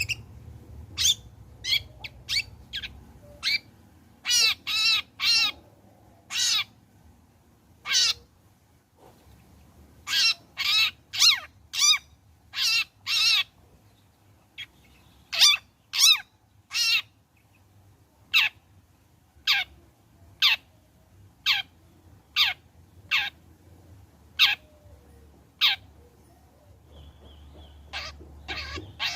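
Long-tailed shrike (cendet) giving a long series of short, harsh, rasping calls, some single and some in quick runs of three or four, with short pauses between them.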